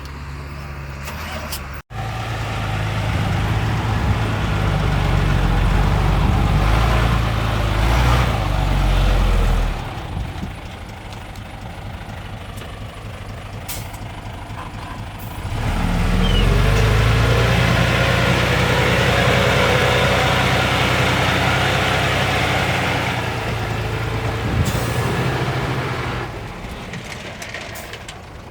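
Diesel engines of earthmoving machinery running, twice working hard for several seconds with quieter running in between.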